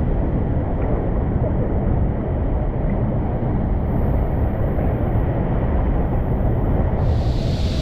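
Steady low roar of a large waterfall pouring into its plunge pool, growing hissier near the end.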